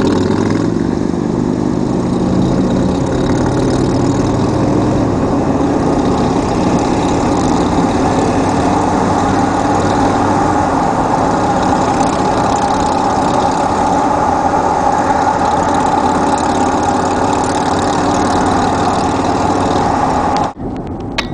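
Motor vehicle engines running steadily. The sound cuts off abruptly near the end.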